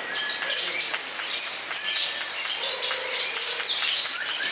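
Many lovebirds chattering and trilling at once, a dense, unbroken stream of high, shrill chirps with a few longer held whistles.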